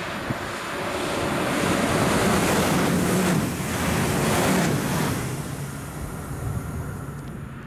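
DB Twindexx double-deck electric train passing at speed below: a rising then fading rush of wheels on rails and air, loudest about two to five seconds in, with a motor hum that drops in pitch as it goes by. Wind buffets the microphone.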